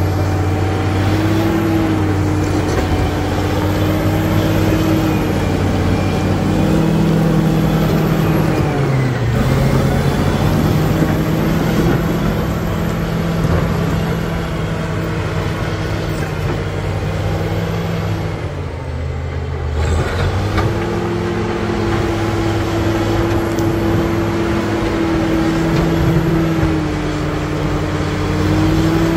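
Caterpillar D7G bulldozer's six-cylinder diesel engine running under load. Its pitch dips briefly about nine seconds in, and near the middle it drops lower and quieter for a couple of seconds before pulling back up.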